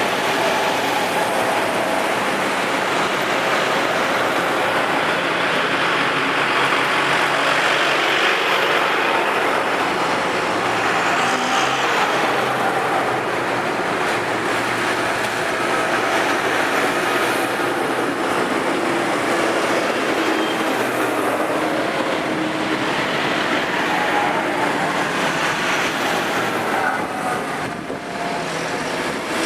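Tractors driving past in a procession, their engines running steadily with a continuous mechanical rumble.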